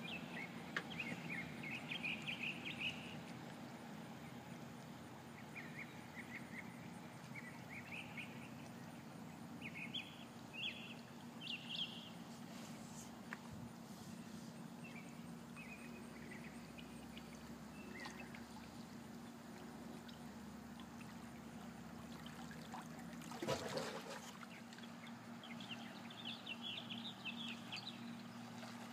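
Birds chirping in short bursts of high notes over a faint steady low hum, with one brief louder noise about 23 seconds in.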